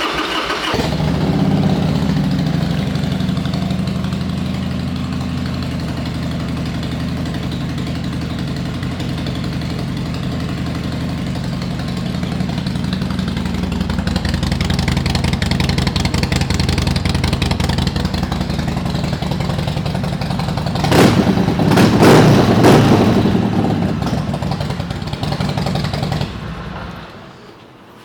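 Harley-Davidson Sportster 1200T Superlow's V-twin with aftermarket pipes starting up and settling into a steady idle. It is revved several times about three-quarters of the way through, then shut off near the end.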